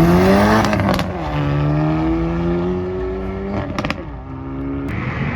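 A car accelerating hard through the gears: the engine's revs climb, fall sharply at a gear change about a second in, climb again, then fall at a second shift near four seconds, with short sharp cracks at the shifts.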